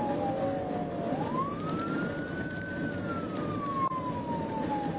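Police car siren on a slow wail: the tone falls to a low point, rises about a second in, holds high, then falls slowly again, over steady road and engine noise of a patrol car at highway speed.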